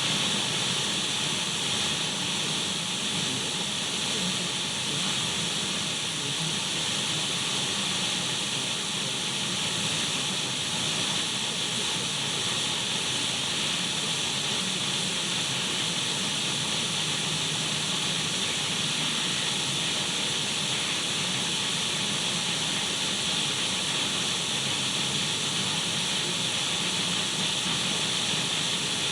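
Untuned radio static: an even, steady hiss with a faint low hum underneath.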